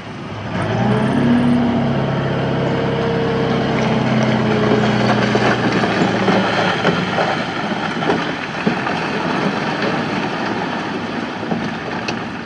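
Heavy diesel machinery working: an engine tone builds about half a second in and holds steady, then gives way to a rough, rattling noise with scattered knocks.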